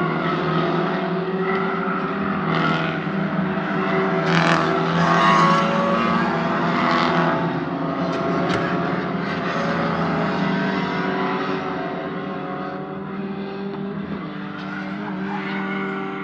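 Racing car engines running at a steady pitch, growing briefly louder about four to five seconds in and fading a little toward the end.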